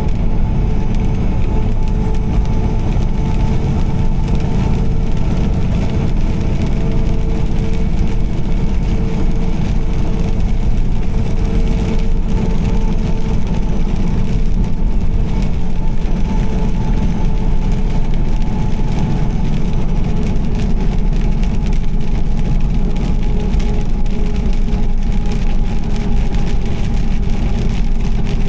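Car driving steadily at highway speed on a wet road: a constant low rumble of engine and road noise with a faint steady hum, and a thin hiss of tyres on water above it.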